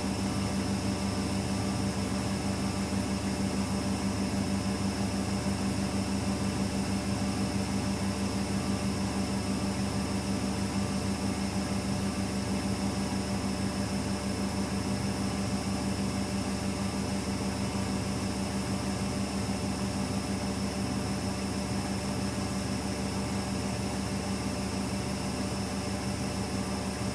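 AEG Lavamat L74810 washing machine running with a steady, even motor hum and whir.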